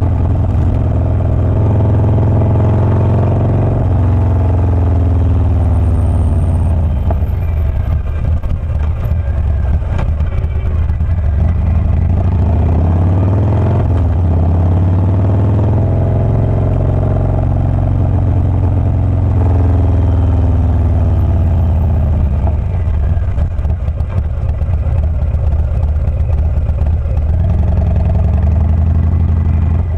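Harley-Davidson Low Rider S Milwaukee-Eight 117 V-twin with a Wood Performance 777XE cam running loud and deep, its pitch climbing and falling back several times as the throttle is opened and eased off, most plainly about halfway through.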